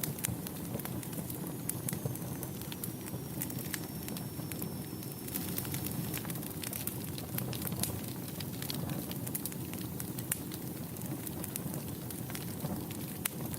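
Wood fire burning in a fireplace: a steady low rush of flames with many sharp crackles and pops throughout. In the first half a faint, thin, high whistle slides down and then holds for a few seconds.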